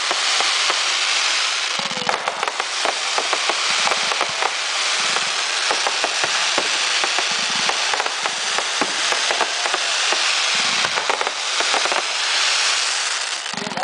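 Fireworks going off close by: a dense, continuous crackling of spark effects with many sharp pops, and a deeper thump every two to three seconds as further shots fire.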